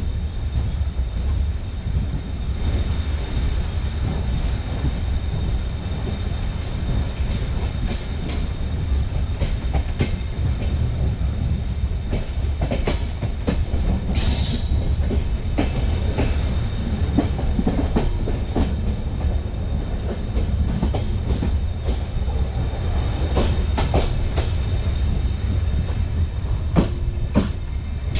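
Train running on the rails: a steady low rumble with irregular clicks of the wheels over rail joints and points, and a brief high-pitched wheel squeal about halfway through and again at the very end.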